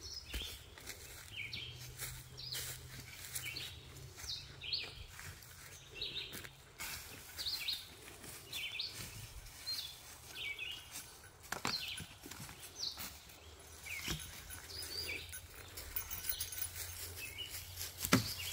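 Birds chirping, short calls repeating every half second to a second. A few sharp clicks or knocks sound among them, the loudest just before the end.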